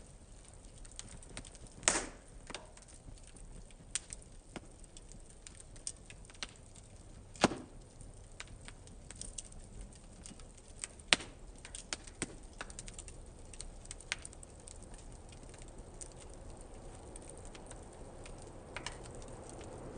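Wood fire crackling in a fire pit: irregular sharp pops and snaps, a few of them louder, over a faint steady hiss of the flames.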